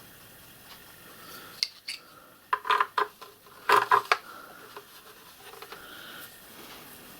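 Small metal hardware clinking and rattling as it is handled and fitted together: a couple of sharp clicks, then two short bursts of clinks about a second apart, with a light metallic ring.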